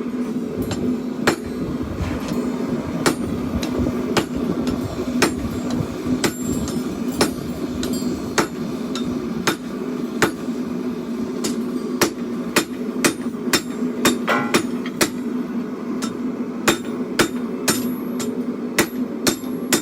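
Hand hammer striking hot steel on an anvil while forging a chopper blade: a run of separate blows, about one a second at first and coming quicker in the second half, over a steady low hum.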